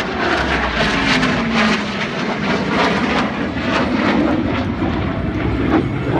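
F-15SG fighter jet flying a display pass, its twin engines a loud, continuous rushing jet noise with a tone that falls in pitch early on as it goes by.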